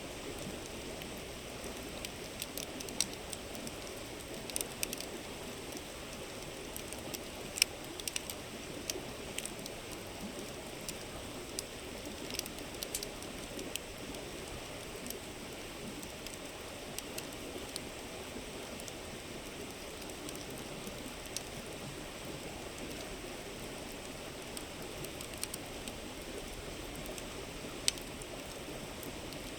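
Wood fire crackling with sharp pops, busiest in the first half, over the steady babble of a river.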